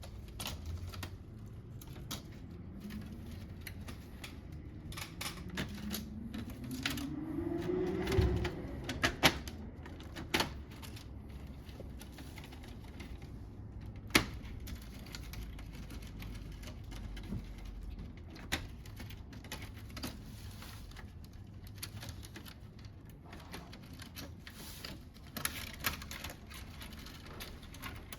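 Scattered clicks, taps and knocks of plastic parts being handled and unclipped while a Fujitsu Nocria room air conditioner is taken apart. A rising whir comes in about five seconds in and stops near eight seconds, followed by a couple of louder knocks and a single sharp click about halfway through.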